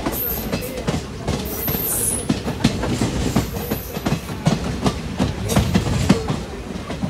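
Passenger train coaches of the Mannargudi–Tirupati Pamani Express running along the line, heard from an open coach door: a steady rumble of wheels on rail with frequent clicking as the wheels pass over rail joints.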